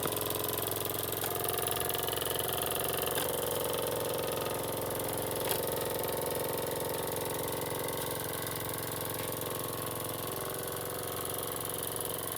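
Vintage Jensen #70 live steam engine running steadily at speed, its electric boiler heater set to only 85 volts.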